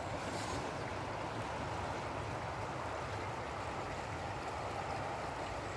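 Steady rush of flowing water, a stream or river running high.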